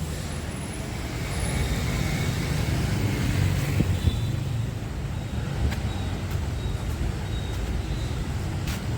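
Street traffic noise: a steady wash of passing vehicles, with a few faint high tones and clicks over it.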